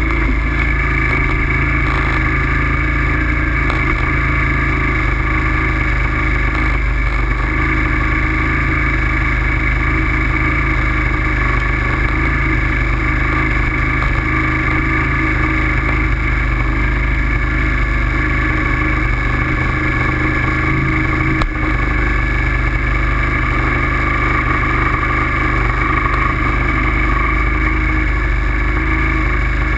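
Steady riding noise from a bike in motion: a constant low rush of wind with a few held tones, unchanging in pitch, and one brief knock about two-thirds of the way through.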